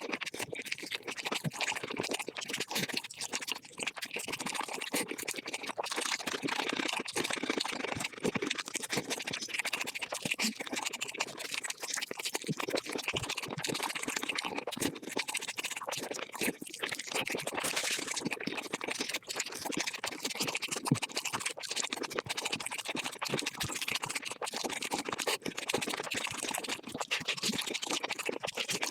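Mukbang eating sounds of chicken sped up about five times: a fast, unbroken stream of crunching, chewing and mouth clicks at a steady level.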